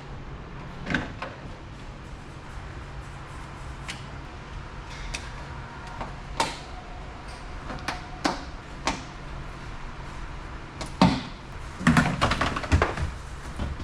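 Scattered clicks, taps and knocks of tools and car parts being handled during disassembly, over a steady low hum. The knocks bunch together in a quick run near the end.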